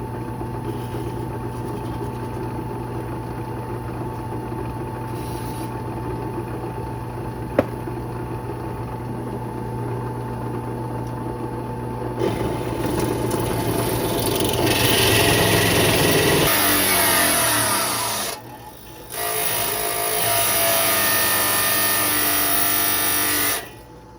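Drill running with a pilot-bit hole cutter biting into thin sheet metal. A steady motor hum comes first; about halfway in a loud grinding, scraping cut sets in, breaks off briefly about three-quarters through, resumes, then stops just before the end. The cutter gets through most of the way around the circle, but not all of it.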